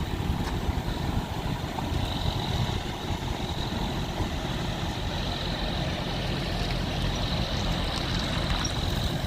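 Vehicle engines running at idle with a steady low rumble, and a faint steady high whine joining in about two seconds in.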